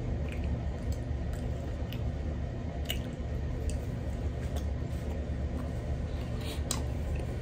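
Close-miked wet mouth sounds of a person chewing food, with squishy smacks and a few short clicks, over a steady low hum.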